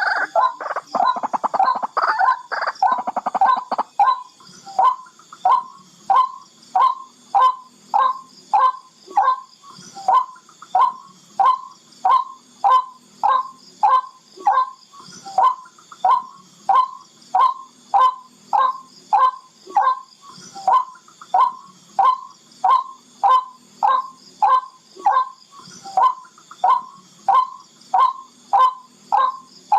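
Barred rail calling: a dense run of rapid, overlapping notes for the first few seconds, then a long, even series of single short, sharp notes, about one and a half a second.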